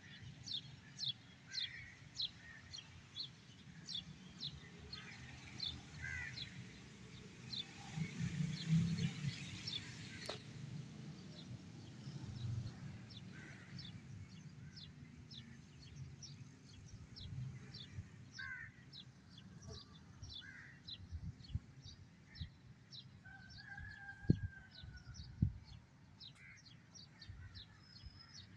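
Birds calling: one bird repeats a short high chirp about twice a second, with other bird calls among it over a low background rumble. Two sharp knocks come near the end.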